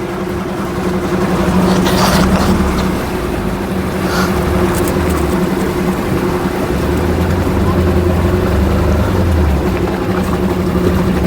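Motorboat engine running steadily under way, a constant low hum with a hiss over it.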